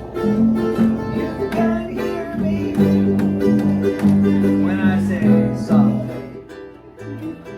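Guitar music, plucked notes played over a steady rhythm. It grows quieter about six seconds in.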